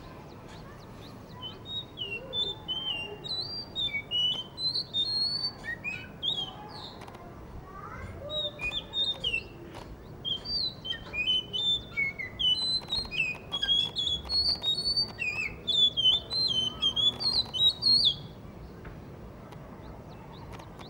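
Blue whistling thrush singing a long run of quick, slurred whistled notes that swoop up and down, with a short lull partway through; the song stops a few seconds before the end.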